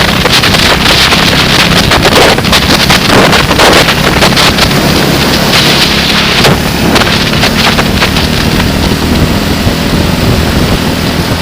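Heavy wind buffeting on the microphone, loud and gusting, over the steady hum of a running engine.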